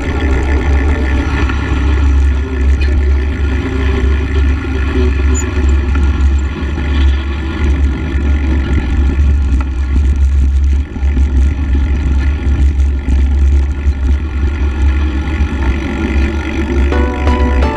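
Steady low rumble of a vehicle running, engine and road noise without a break.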